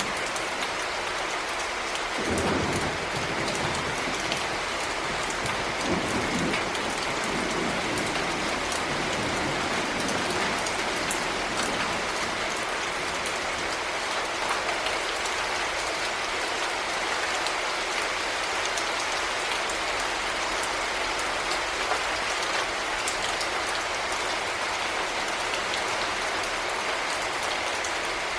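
Heavy rain falling steadily, a dense patter of drops. A short low rumble comes about two seconds in, and another around six to eight seconds in.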